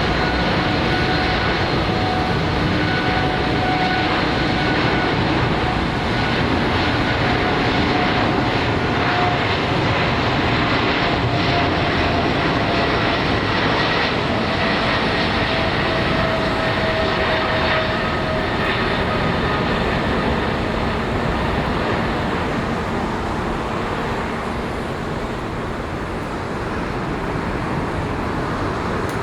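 Boeing 777 freighter's turbofan engines running at high power, a steady loud jet noise with whining tones that slowly fall in pitch.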